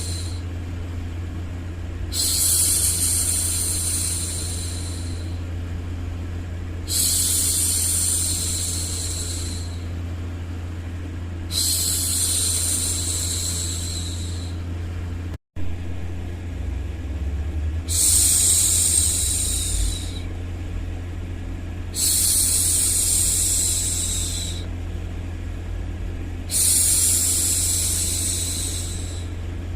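A woman's voice making long, soft 'shhh' hushing sounds to soothe a baby, six shushes of about three seconds each, repeating every four to five seconds over a continuous low, steady white-noise hum. The sound cuts out for a split second about halfway through, where the loop restarts.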